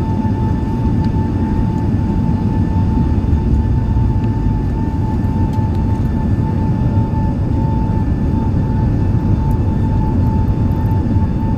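Emirates Airbus A380 airliner making a steady, unbroken low rumble, with a constant high whine over it.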